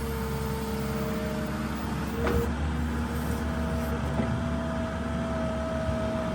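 New Holland LS170 skid steer's diesel engine running steadily while it pushes snow, with a steady whine that shifts to a higher pitch partway through. There is a single knock about two seconds in.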